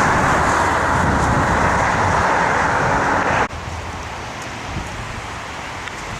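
Storm wind rushing loudly and steadily. About three and a half seconds in it cuts off suddenly to a quieter rush of wind in trees.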